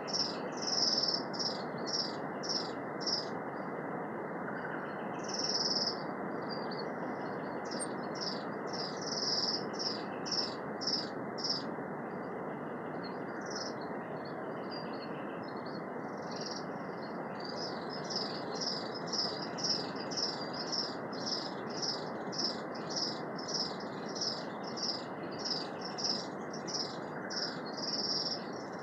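Small birds in native forest chirping with short, high calls in quick series, about two a second, thinning briefly near the middle, over a steady rushing hiss.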